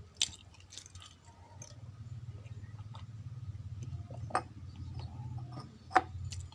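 Close-miked eating of raw rice: a low steady rumble of chewing with a few sharp, isolated cracks or clicks, the loudest about six seconds in.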